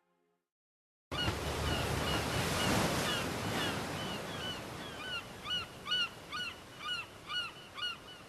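A bird calling a short, downward-sliding chirp over and over, about twice a second, over a steady rushing hiss. It starts about a second in, after dead silence, and the chirps grow clearer halfway through.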